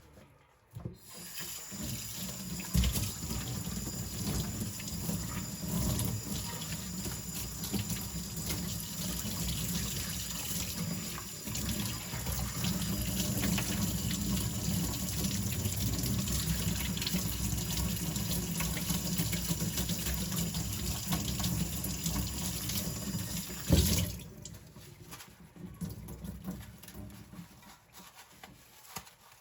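Kitchen tap running into a sink, water splashing steadily. It comes on about a second in and shuts off with a sharp knock near the end, after which a few faint clinks follow.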